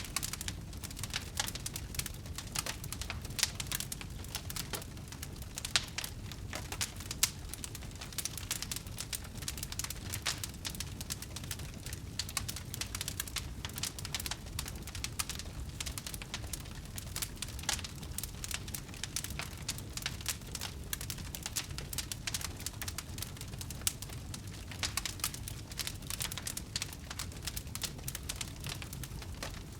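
Wood fire crackling: a dense, irregular run of small pops and snaps over a steady low rumble.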